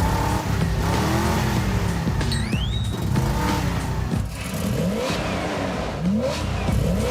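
Cartoon hot-rod engine sound effect revving over and over, each rev a rising pitch, coming faster in the second half, with a brief whistle-like upward sweep about two and a half seconds in.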